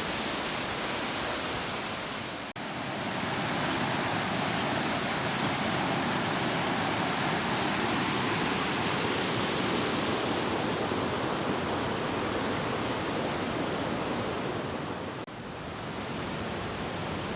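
Waterfall and river water rushing as a steady, dense hiss, briefly cut off about two and a half seconds in and again near the end.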